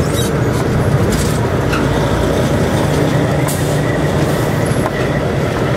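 Steady, loud engine and road noise inside the cab of a moving semi truck, a deep rumble with faint higher whines.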